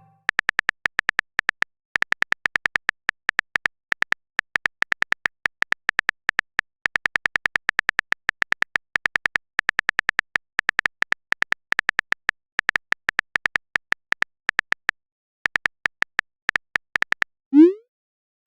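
Rapid clicks of a phone-keyboard typing sound effect, the sound of a chat message being typed, pausing briefly twice. Near the end a short rising swoosh, a message-sent sound.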